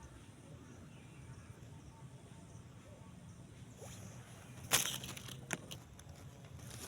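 Quiet outdoor ambience broken by a sudden sharp knock a little past the middle, followed by a few fainter clicks.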